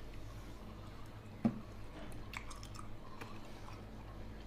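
A person chewing a mouthful of meat that is a bit tough, with faint wet chewing clicks and one short dull thump about one and a half seconds in.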